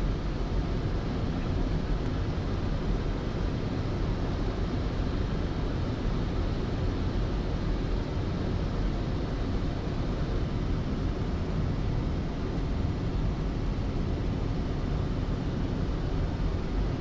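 Steady rush of air and engine noise inside the flight deck of a Boeing 747-400 on final approach, with the landing gear down and flaps at 25.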